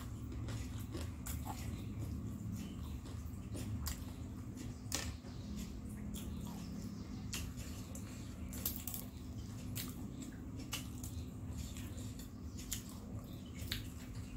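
Close-up chewing and biting of crispy fried snacks, with many short sharp crunches and mouth clicks scattered through, over a steady low hum.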